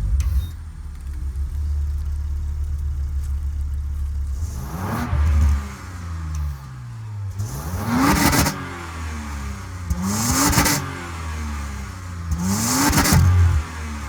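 Car engine idling, then revved four times in quick blips, each rise in pitch falling back to idle.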